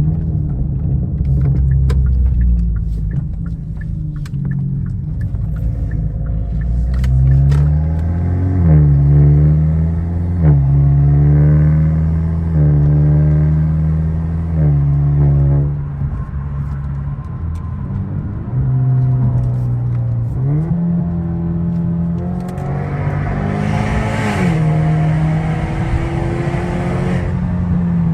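Genesis G70's 2.0-litre turbocharged four-cylinder engine, fitted with a bigger turbo, accelerating through the gears. The engine note climbs and then drops sharply at each shift, several times. A rushing hiss rises with the pull about three-quarters of the way through.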